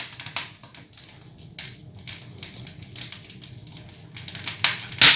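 Firewood crackling and popping in the firebox of a Termofor wood-burning stove-fireplace: irregular sharp snaps throughout, with a loud pop at the start and another near the end.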